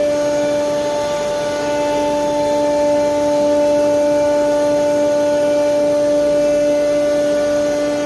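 CNC router spindle running at steady speed, a constant whine over a steady rushing noise.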